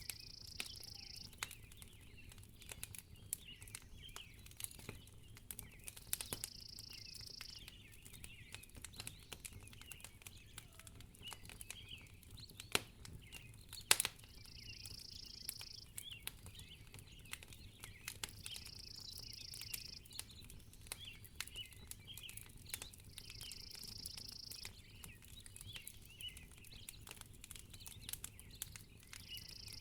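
Wood fire crackling in a fireplace: a steady scatter of small snaps and ticks, with one louder pop about halfway through. A short, high hiss comes back every four to five seconds.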